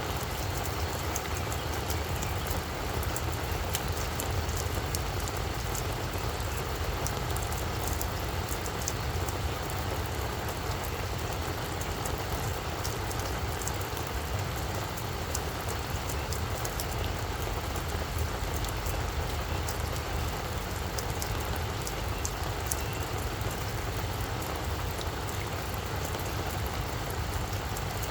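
Steady rain falling, with many sharp drop ticks, over a low steady rumble.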